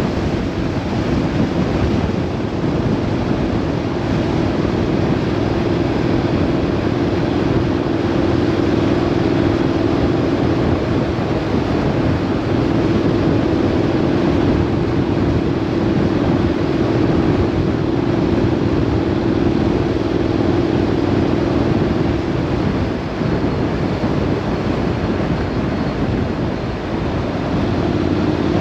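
A vehicle on the move: steady engine drone under wind and road noise. The engine note eases off for a few seconds from about three-quarters of the way through, then comes back near the end.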